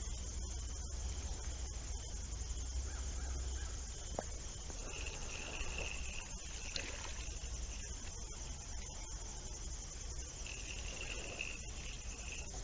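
Insects, likely crickets, chirring steadily in a high continuous drone over a low outdoor rumble. Two longer, higher calls come through, about five seconds in and again about ten and a half seconds in.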